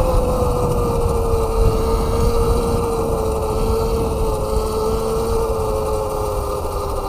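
Electric bike's 48-volt motor whining at a steady pitch while riding, the whine easing slowly lower as the bike slows, over a rough low rumble of wind and road noise.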